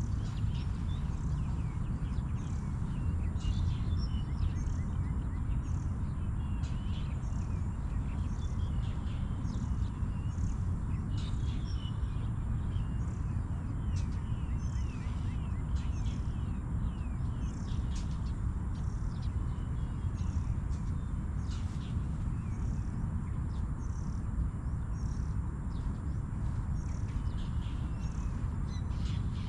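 Birds chirping, many short repeated calls throughout, over a steady low rumble.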